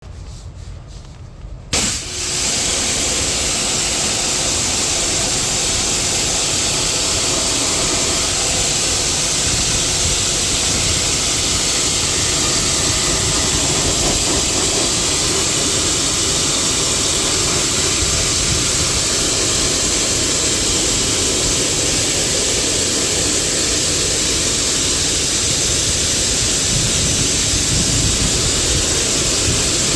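Pressure washer spraying water in a steady, loud hiss, starting suddenly about two seconds in.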